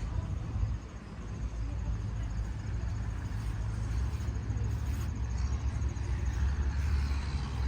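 An engine running steadily with a low rumble. Faint, evenly repeating insect chirps sound above it.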